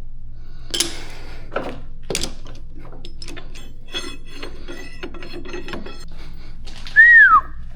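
Metal tools and parts clinking and knocking while work is set up at a metal lathe, over a steady low hum. Near the end comes a short whistled note that arches briefly and then falls in pitch.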